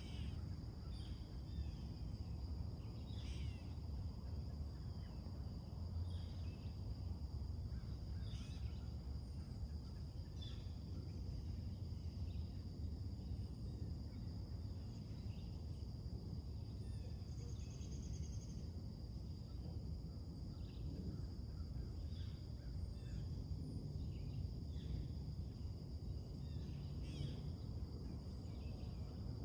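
Wild birds giving scattered short chirps and calls over a steady, high-pitched drone of insects and a low background rumble.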